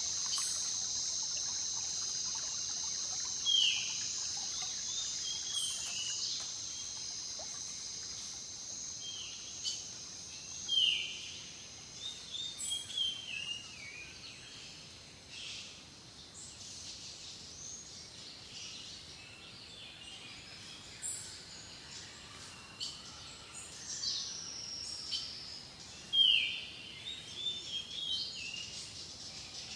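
Jungle ambience: birds give short whistled calls that sweep downward, the loudest three coming a few seconds in, about eleven seconds in and near the end, with quicker chirps between. Under them a steady high insect drone fades out about halfway through.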